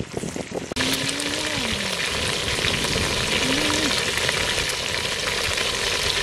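Whole frogs frying in hot oil in a metal pot, a steady sizzle and bubbling that starts abruptly about a second in.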